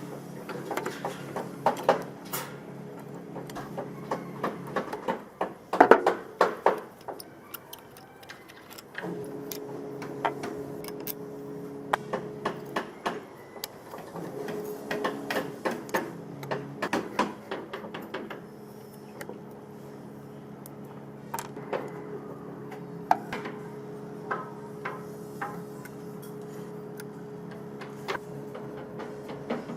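Irregular metal clicks and light taps from parts of an old portable electric hand planer being handled and worked on, with a close cluster of louder knocks about six seconds in, over a steady low hum that drops out briefly twice.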